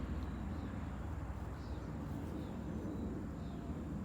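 Steady low outdoor background rumble, with faint short high chirps now and then.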